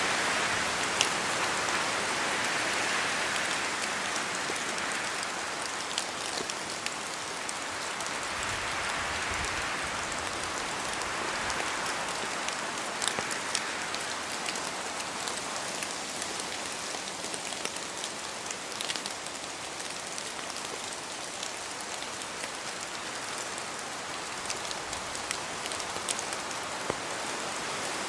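Steady rain falling in a forest, with scattered sharp drips of drops falling from the trees. The hiss slowly swells and eases.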